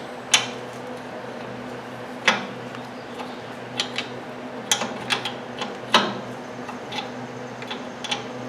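Steel wrenches clicking and clinking against a pair of locked nuts as a stud is worked into its threaded hole: about a dozen irregular sharp metallic clicks. Under them runs a steady low hum.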